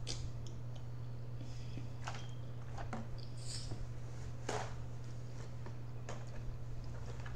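Mouth sounds of someone eating mussels with linguine: chewing with scattered wet clicks and smacks a second or two apart, the strongest about halfway through, over a steady low hum.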